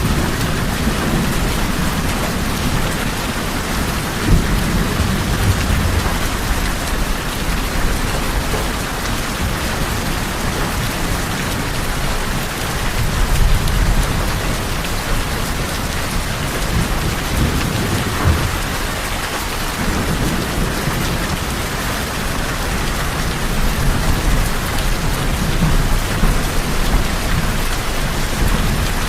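Steady, heavy rain drumming on tin roofs, with a low rumble underneath that swells and fades several times.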